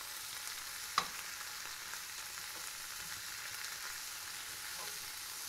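Broccoli rabe, sliced garlic and walnuts sizzling in hot oil in a skillet as they are stirred with tongs, with one sharp click about a second in.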